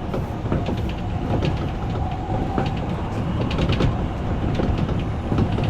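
Odakyu electric commuter train running on the rails, heard from on board: a steady low rumble with frequent short wheel-on-rail clicks.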